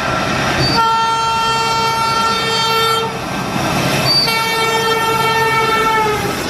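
Indian Railways locomotive horn sounding two long blasts over the rumble of a passing train. The second blast sags in pitch as it ends.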